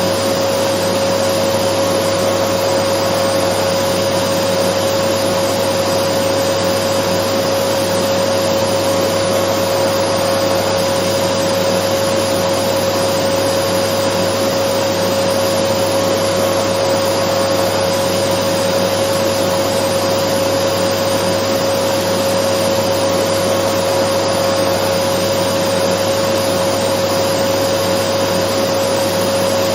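Dyson vacuum cleaner running steadily: a constant rushing noise with a steady whine over it, with no change in pitch or level.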